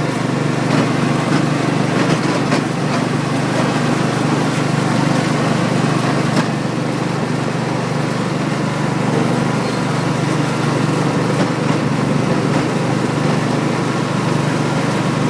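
Small tractor's engine running steadily, with no change in speed.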